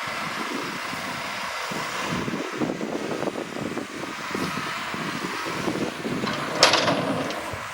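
Heavy earthmoving machinery running, a steady engine noise with irregular knocking and rattling. A short, sharp noise about six and a half seconds in is the loudest moment.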